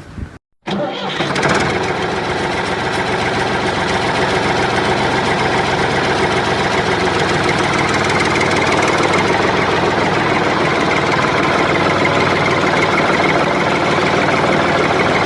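A motor starts up just under a second in and runs steadily with an even hum.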